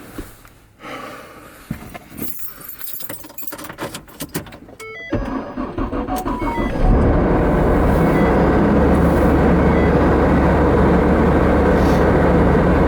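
Keys jangling and clicking during handling, then about five seconds in a car engine starts and settles into a loud, steady running noise with a constant low hum.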